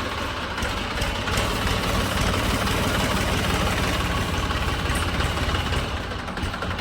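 Small motor-driven machine running steadily, a continuous mechanical noise with a low hum.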